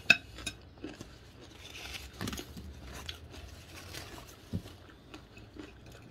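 A person chewing a mouthful of salad and chicken, with wet crunching and biting sounds. A sharp click just after the start, the loudest moment, and a low knock later on come from handling the utensils and plate.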